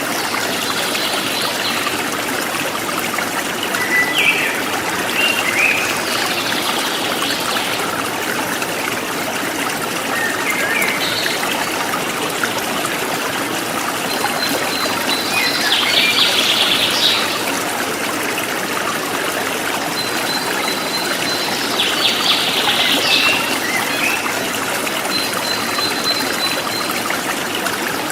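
Forest stream flowing steadily, with birds chirping on and off over it: short chirps and trills, busier about halfway through and again near the end, plus a thin high note held for a couple of seconds a few times.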